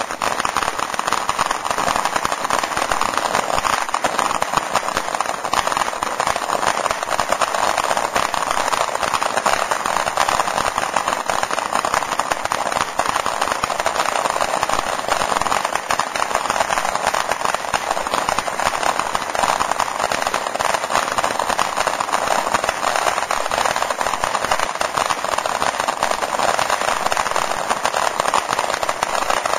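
Ground fountain firework spraying sparks: a steady hissing crackle that keeps an even level throughout.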